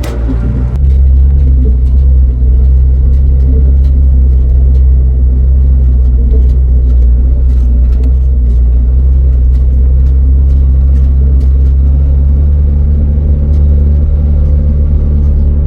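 A vehicle engine running steadily at an even speed: a loud, low, unchanging hum with faint scattered ticks.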